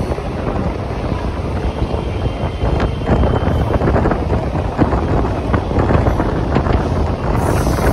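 Mumbai local train running, heard from its open doorway: wind buffeting the microphone over the rumble of the coach, with irregular sharp clacks of the wheels over rail joints and points.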